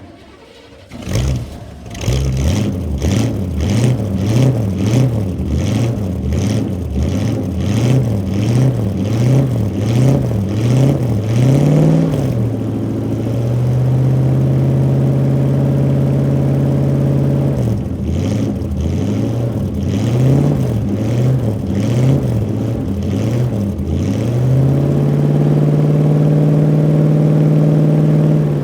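1986 Chevrolet C-10 Silverado pickup's engine starting from cold and catching within about two seconds. It is then revved in quick repeated throttle blips, about one and a half a second, held at a steady raised speed from about halfway, blipped again, and held high once more near the end.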